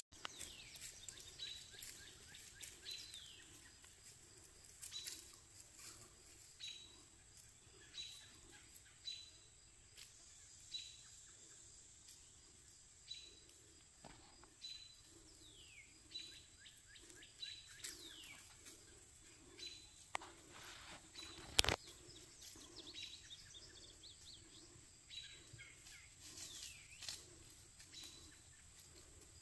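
Faint bird calling repeatedly from the tree canopy: short high notes and quick downward-slurred whistles, about one every second or so, over a steady high hiss. Once, about two-thirds of the way in, a sharp knock.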